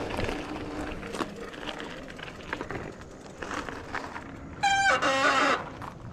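Rustling and light knocks of clothing and gear being handled, then about four and a half seconds in a loud pitched call or tone lasting about a second.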